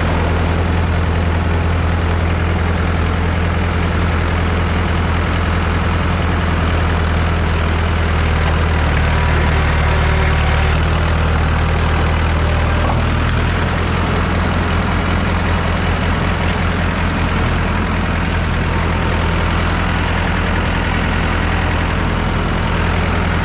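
Massey Ferguson 3165 backhoe tractor's diesel engine running steadily, pulling a little harder for a couple of seconds about ten seconds in.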